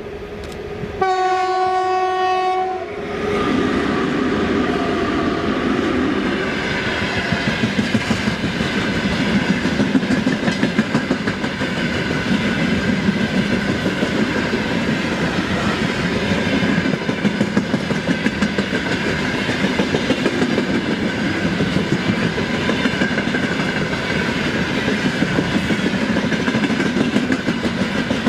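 VL11.8 electric locomotive sounds its horn in one blast of about two seconds. Its train then rolls past, with wheels clacking in a steady rhythm over the rail joints.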